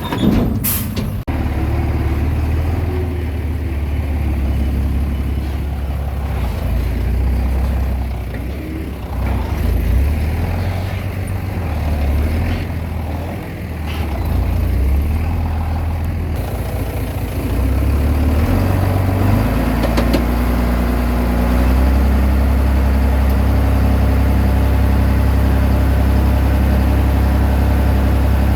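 Komatsu D20P bulldozer's diesel engine working, its note rising and falling irregularly under changing load, then running steadily through the last several seconds. A sharp clank sounds about a second in.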